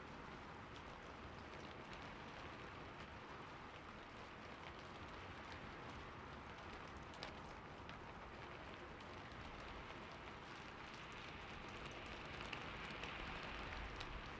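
Steady rain falling on a roof: an even, soft hiss flecked with the ticks of single drops, swelling slightly near the end.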